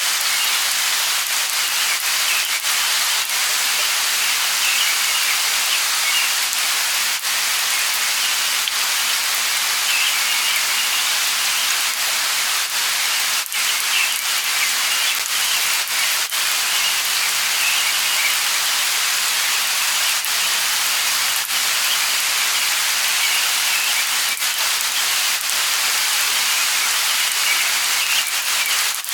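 Light rain falling steadily, an even hiss with scattered individual drops, and brief high bird chirps coming now and then.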